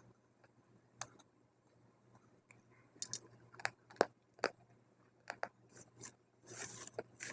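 Dry multani mitti (fuller's earth) clay crunching as it is bitten and chewed, in crisp sharp snaps. There is a single snap about a second in, and the crunches come thicker from about three seconds on.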